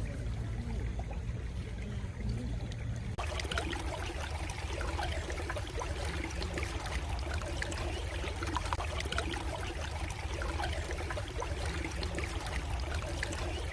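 Stream water flowing steadily over a low rumble. About three seconds in, the sound switches abruptly to a brighter, busier babble of water.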